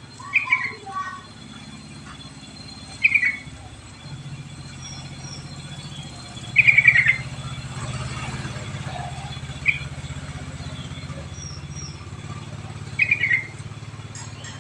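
Yellow-vented bulbul (trucuk) song used as a lure call: five short phrases spaced a few seconds apart, over a steady low hum.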